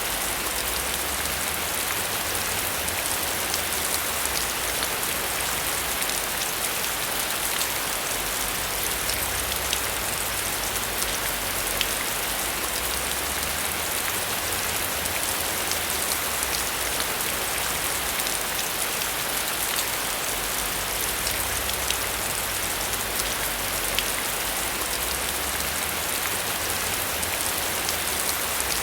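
Heavy rain falling steadily, a dense even hiss full of small drop hits, with a low rumble underneath.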